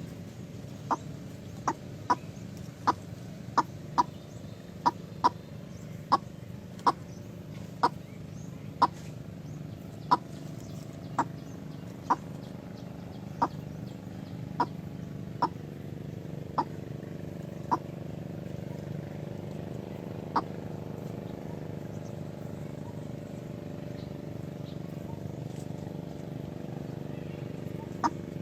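A chicken clucking: short, sharp clucks come about one or two a second, thin out after about 18 s and then stop, with one more near the end. A steady low hum runs underneath.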